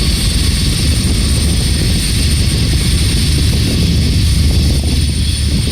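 Freight train's diesel locomotives running past with a steady, loud low rumble.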